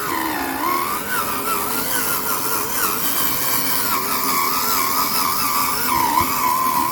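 An RC truck's motor whining steadily, its pitch wavering up and down as the throttle and load change.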